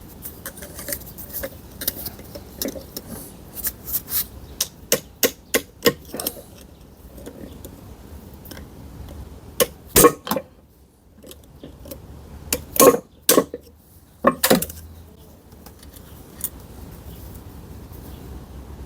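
Metal tools and parts being handled on a workbench: a run of quick light clicks and clinks in the first six seconds, then a few louder knocks, two of them close together, later on.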